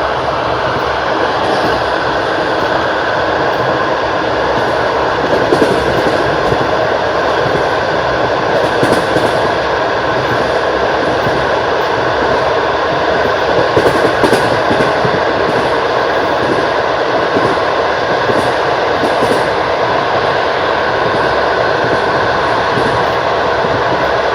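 Passenger train wheels running over the rails: a steady rumble with paired clacks every few seconds as the wheelsets cross rail joints.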